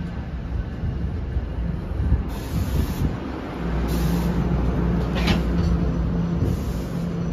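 NJ Transit multilevel commuter train drawing slowly along the platform as it arrives, its rumble settling about halfway through into a steady low hum. A few short hisses sound over it.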